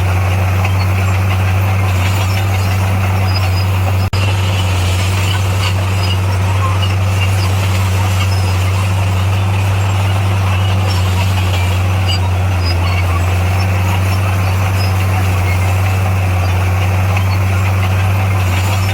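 Bulldozer's diesel engine running at a steady speed, with a constant low drone. The sound cuts out for an instant about four seconds in.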